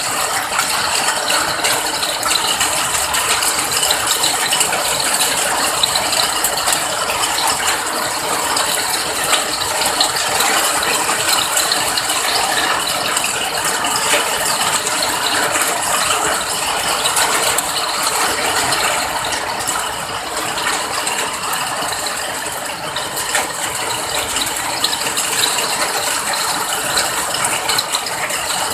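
Steady rain: a dense, even patter of many close drops that does not let up.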